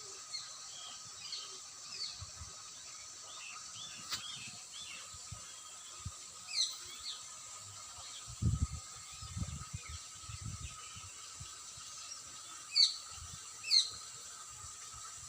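Small birds chirping over a steady outdoor background, with several sharp calls that fall in pitch, the loudest ones about halfway through and twice near the end. A few low thumps come a little past the middle.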